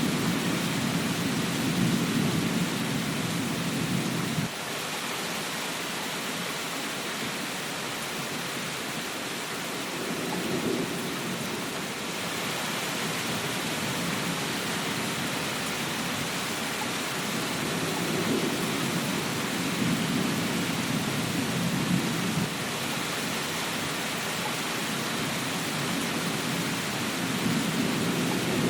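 Steady rain falling, with low rumbles of thunder swelling and fading several times; the first rumble cuts off abruptly about four and a half seconds in.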